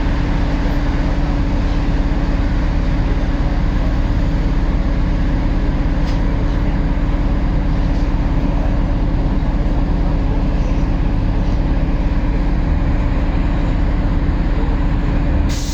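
MAZ-203 city bus under way, heard from inside the cabin: steady diesel engine and road noise with a constant low hum, which shifts abruptly just before the end.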